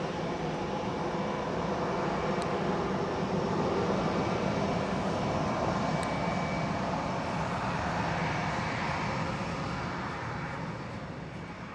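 Airbus A320's twin CFM56 jet engines at takeoff power, a steady broad roar that swells as the airliner passes and then fades away near the end.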